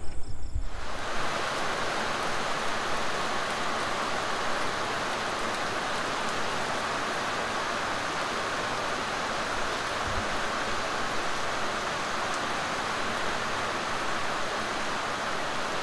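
Steady rain falling onto the lake and the pier's wet decking, an even hiss that starts suddenly about a second in.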